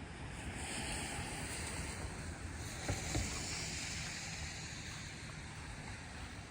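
Rain falling, a steady hiss that swells over the first few seconds and eases off toward the end, with two soft knocks near the middle.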